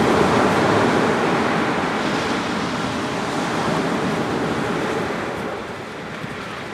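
Surf breaking and washing up a sandy beach, loud at first, then fading as the wash draws back. A few faint crackles come from a driftwood fire near the end.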